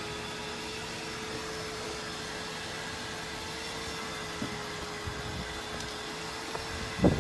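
Steady machine hum, like a motor or fan running, with a constant tone. A few faint knocks come in its second half, and a sudden loud thump right at the end.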